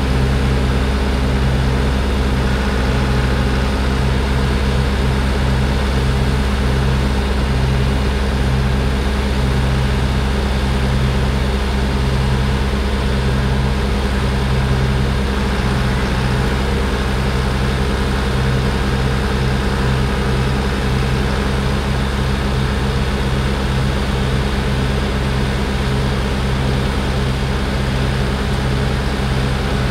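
International HX620 dump truck's X15 Cummins diesel engine running steadily, a constant low drone with a wavering hum on top.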